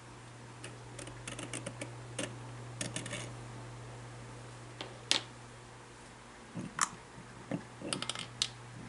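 Clusters of light clicks and taps from small parts and hand tools being handled during the disassembly of a Dumore tool post grinder motor, with one sharper click in the middle. A steady low hum runs underneath.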